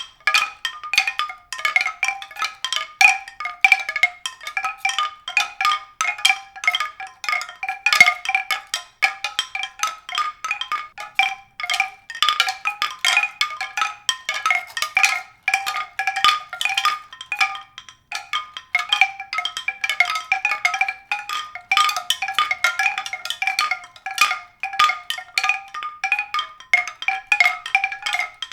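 Mallet percussion music: a steady stream of quick struck notes in a high register, several a second, with no bass.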